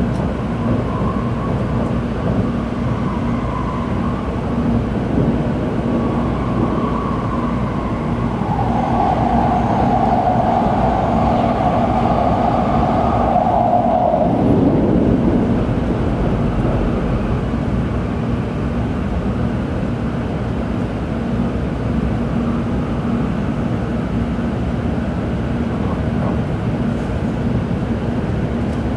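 Tokaido Shinkansen train running, heard from inside the passenger car: a steady rumble of wheels and track, with a whine that comes in midway and stops about fifteen seconds in.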